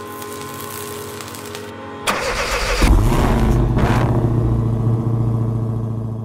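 A car engine starting: a sharp burst about two seconds in, then the engine catches and runs at a deep, steady idle that slowly fades.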